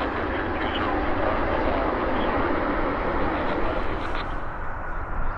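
Jet engines of a Boeing 777-300ER wide-body airliner passing close by: a steady, loud rumble of engine and air noise, easing off slightly near the end.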